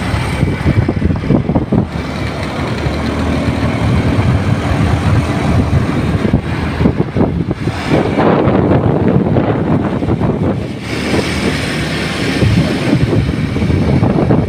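Strong gusty wind buffeting a phone microphone: a loud, rumbling noise that swells and eases from gust to gust.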